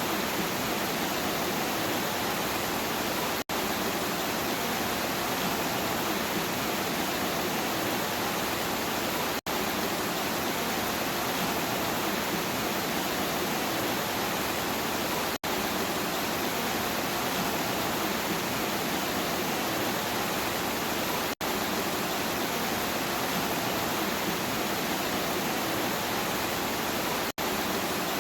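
Steady rainfall: a dense, even hiss of rain with no thunder, cutting out for a split second about every six seconds, as at the seam of a looped recording.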